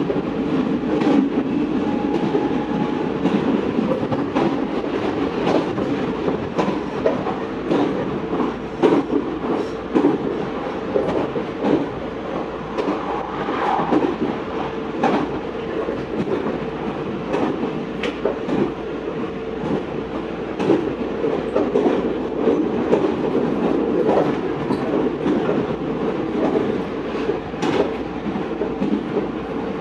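Meitetsu 4000 series electric train running at steady speed, heard from inside the car: continuous rolling noise with a steady hum under it, and the wheels clicking over rail joints every second or so.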